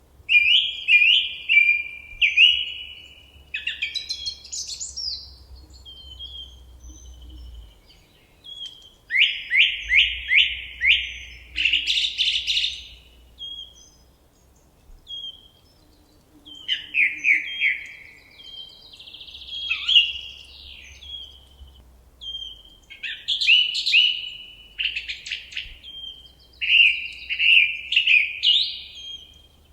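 Common nightingale singing: varied phrases of quick repeated notes and trills, separated by short pauses.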